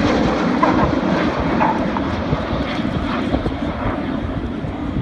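BAE Hawk T1 display jets flying overhead in formation: a steady jet roar that slowly fades a little toward the end.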